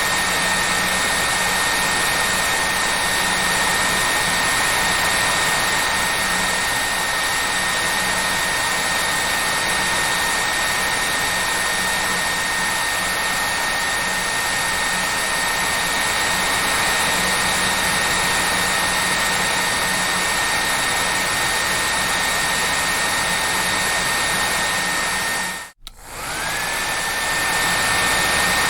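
Hair dryer running steadily: a continuous rush of air with a high motor whine and a low hum. About three seconds before the end it drops out for a moment and comes straight back, the whine sliding up to pitch again.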